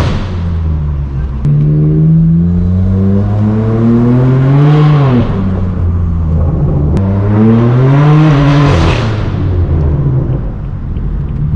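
Straight-piped BMW M4 F82's twin-turbo inline-six with an AWE Track exhaust, accelerating loudly twice: the revs climb for about four seconds and drop off, then climb again and fall away near the end.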